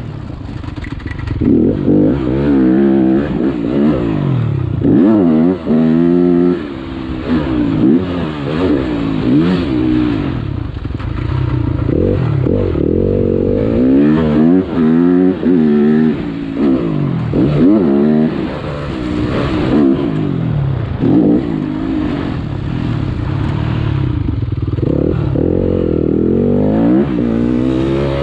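Motocross motorcycle engine revving hard and easing off over and over, its pitch climbing and dropping every second or two as it accelerates, shifts and slows.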